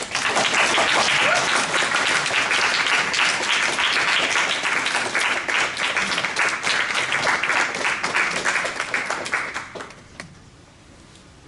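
Audience applauding, steady for about nine seconds and then dying away.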